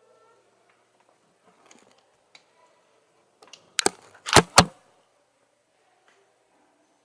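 Truck cab door handle and latch being worked: a few sharp clacks in quick succession, the last two the loudest, about four seconds in, with light handling rustle around them.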